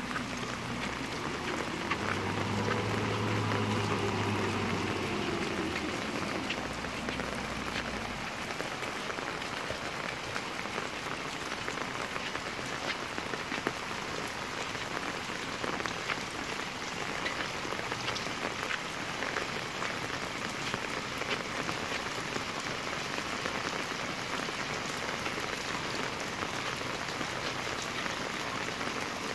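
Steady heavy rain from a tropical storm falling on a cobblestone street, with many fine drop ticks. A low rumble swells and fades over the first several seconds.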